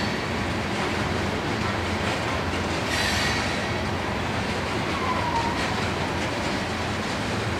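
Loaded coal hopper cars of a freight train rolling past, a steady rumble of wheels on rail, with a short high wheel squeal about three seconds in.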